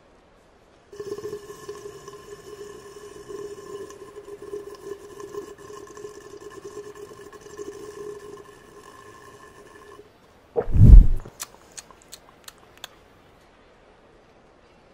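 Cartoon sound effect of a character drinking coffee from a mug: a long steady slurp with a held tone in it for about nine seconds, then a loud deep gulp and a few quick clicks.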